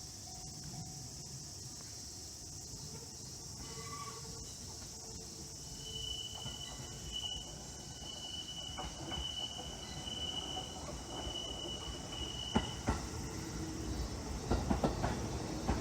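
A steady high drone of cicadas throughout. Under it a train's low rumble builds over the last few seconds with wheel clatter. A high pulsing whine runs through the middle for about seven seconds.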